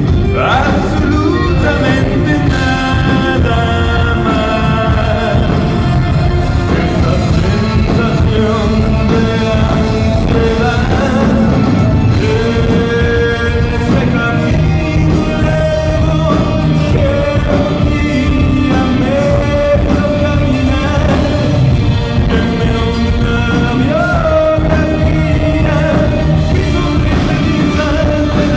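Rock song played loud with singing, over distorted electric guitar.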